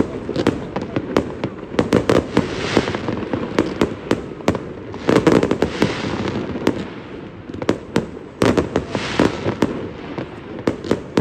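Fireworks bursting in an irregular string of sharp bangs, with three denser flurries about two, five and nine seconds in.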